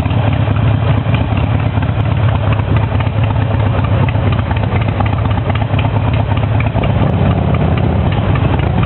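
Harley-Davidson motorcycle's V-twin engine running steadily, a low, even drone.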